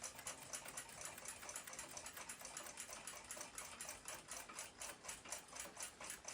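Faint, quick, even ticking of a clock, about five or six ticks a second.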